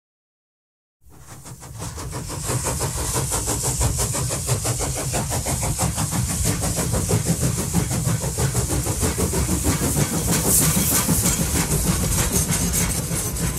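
Train running: a steady rumble with a fast, even beat and a hiss on top, fading in after about a second of silence.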